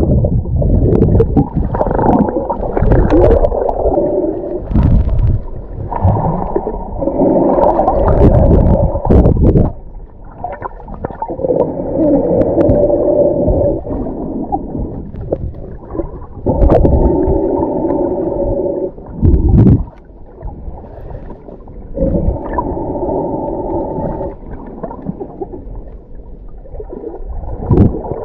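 Muffled underwater sound of a snorkeler breathing through a snorkel: long breaths about every five seconds, with gurgling and sloshing water in between.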